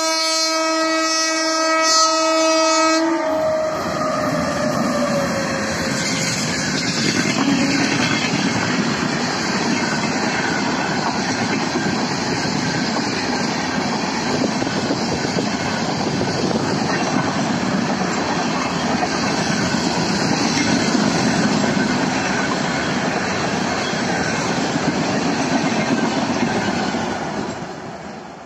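WAP7 electric locomotive sounding a long horn blast for about the first three seconds, its pitch falling as it passes. Then a long LHB passenger rake rushes past at speed with steady wheel clickety-clack, fading near the end as the last coach recedes.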